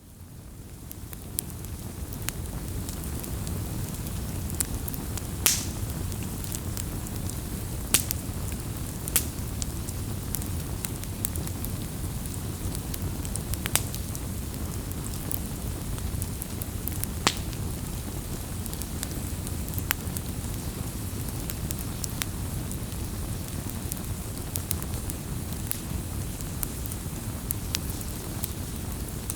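Wood fire crackling: a steady low rumble of burning with sharp, scattered pops every few seconds. It fades in at the start.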